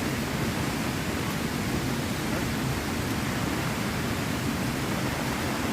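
Steady, even rushing of water with no single drops or splashes standing out.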